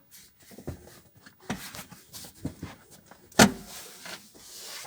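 Handling noises at a car dashboard: scattered soft knocks and clicks of plastic trim and tools, with one sharp knock about three and a half seconds in followed by a brief rubbing hiss.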